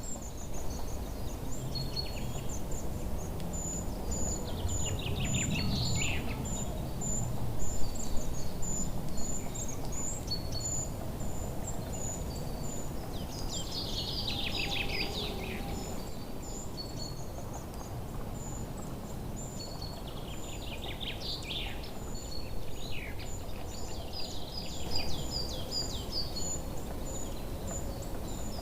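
Small birds singing and calling: short high chirps repeated evenly, with a falling cascade of song notes three times (about 5 s in, midway, and about 21 s in), over a low background rumble.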